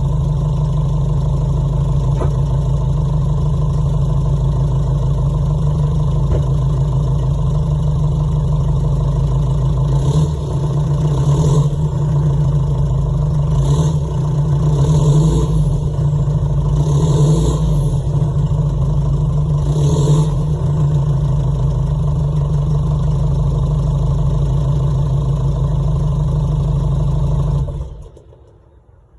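Jeep Liberty CRD's 2.8-litre four-cylinder turbodiesel idling through its stock muffler, then revved several times in short blips with turbo whistle rising on each rev, before settling back to idle. The sound cuts off shortly before the end.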